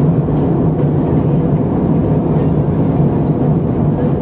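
Steady cabin noise inside an Airbus A320 in flight: the drone of the jet engines and rushing air, with a constant low hum.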